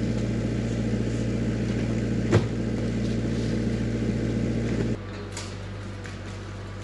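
Mini excavator engine running steadily with an even low drone. There is a single sharp click about two and a half seconds in, and the engine sound drops in level about five seconds in and carries on more quietly.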